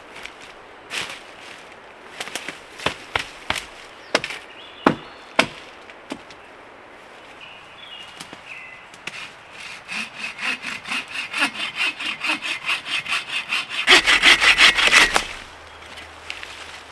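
Hand saw cutting through a piece of firewood: a fast, even run of back-and-forth strokes that builds in loudness to its loudest a little before the end, then stops abruptly. Scattered sharp snaps and knocks of wood come before the sawing starts.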